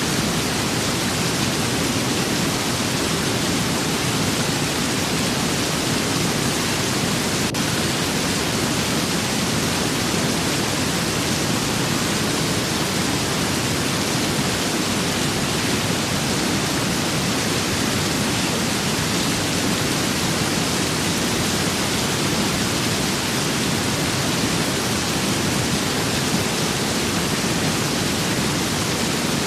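Rain and wind as one steady, even hiss that does not rise or fall.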